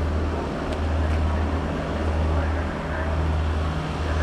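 Engines of the race vehicles following close behind the cyclists, a team car and an ambulance, running at low speed, heard as a steady low rumble with road noise.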